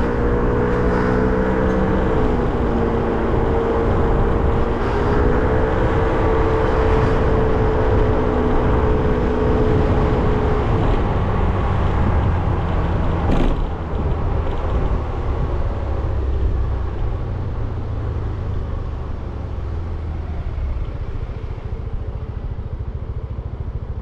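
Motorcycle engine running at a steady pitch while riding through traffic, with road and wind noise. About ten seconds in the engine note drops away, leaving a low rumble that slowly fades. There is a single sharp click a little after.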